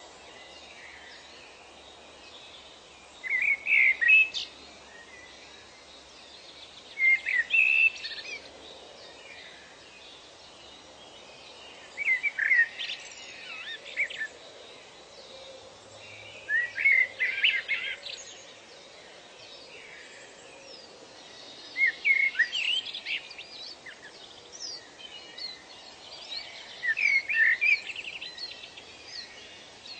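A songbird singing short phrases of quick chirping notes, a new phrase about every four to five seconds, over a steady background hiss.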